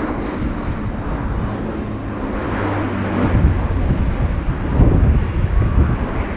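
Airbus A400M's four turboprop engines and eight-bladed propellers droning through a display pass, a deep propeller hum under the roar, growing louder about halfway through.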